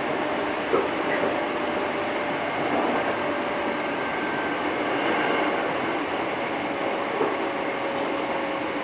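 Hankyu 6300 series electric train running, heard from inside the car: a steady rumble of wheels on rail with a faint whine. Two short knocks come from the running gear, about a second in and near the end.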